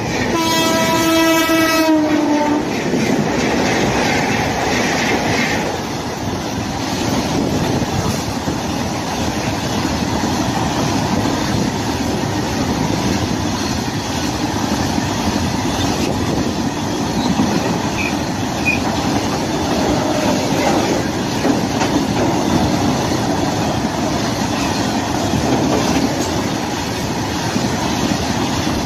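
Electric locomotive horn sounding once for about two seconds, dropping slightly in pitch as it ends, as twin WAG-7 electric locomotives approach. Then a long freight train of loaded petrol tank wagons rolls past close by, the steady noise of its wheels running over the rails.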